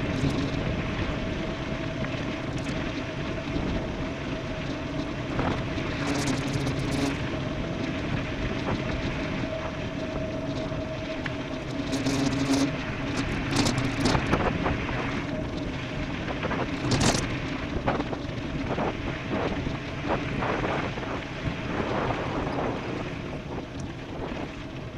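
Wind buffeting the microphone and tyre rolling noise from an e-bike descending a dirt road at speed, with a steady hum through the first half. Sharp knocks from bumps come about six seconds in, again around twelve to fourteen seconds, and near seventeen seconds.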